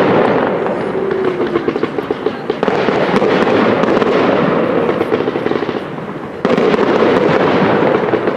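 Display fireworks going off: a dense, continuous crackling with a rushing undertone that jumps louder suddenly about two and a half seconds in and again about six and a half seconds in.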